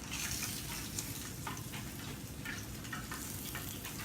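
Hot oil sizzling steadily in a frying pan where chicken is being fried, with scattered small crackles.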